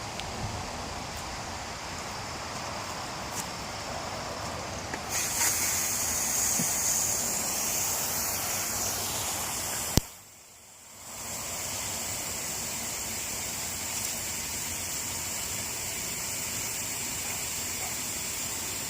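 Gusty wind blowing, a steady rushing noise that turns brighter and hissier about a quarter of the way in. About halfway through a sharp click is followed by a second of much quieter sound before the rushing returns.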